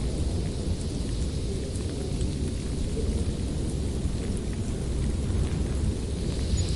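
Howling winter wind: a steady low rumble of gusting air with a thinner hiss above it that swells again near the end.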